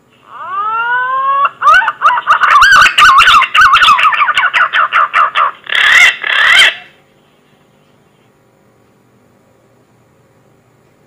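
Green pigeon (punai) song: a long rising whistle, then a fast run of warbling whistled notes, ending in two loud notes, about seven seconds in all. The recording crackles at its loudest points.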